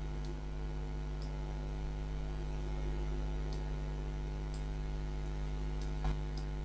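Steady electrical mains hum in the recording, with faint computer-mouse clicks every second or so and one louder click near the end.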